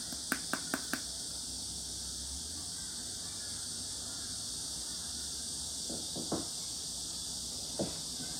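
Clear slime being handled: a quick run of about five sharp clicking pops in the first second, then a lull over steady background hiss, and a couple of soft squelches near the end.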